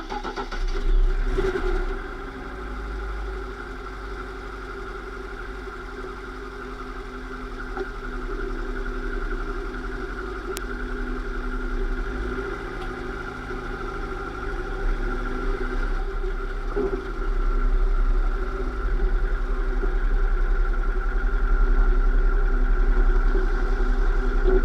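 Lada Niva running, with a steady whine of several held tones over a low rumble from the drivetrain, gradually growing louder: the abnormal transmission noise.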